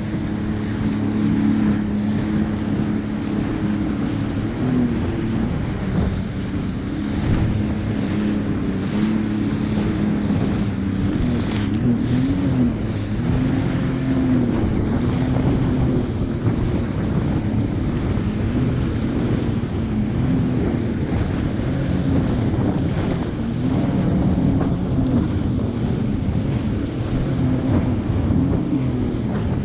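Jet ski engine running under way, its pitch wavering up and down, with water rushing and wind buffeting the microphone.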